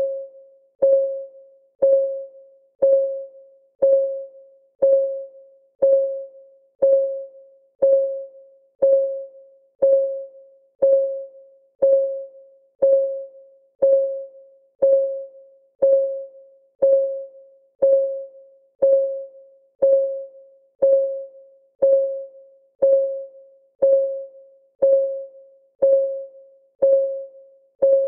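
Countdown timer's clock-ticking sound effect: a short pitched tick about once a second, each ringing briefly and dying away, perfectly even.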